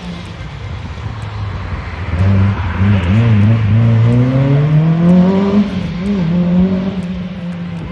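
Rally car's engine under hard acceleration coming past: it swells in about two seconds in, wavers briefly, then climbs steadily in pitch and holds high before easing off near the end.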